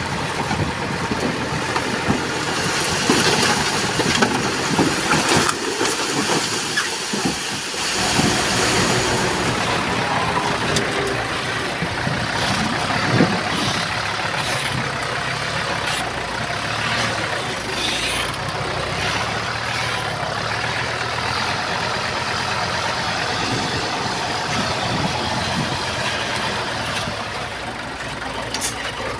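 Diesel engines of a bulldozer and dump trucks running steadily at work, with a few scattered knocks and clanks.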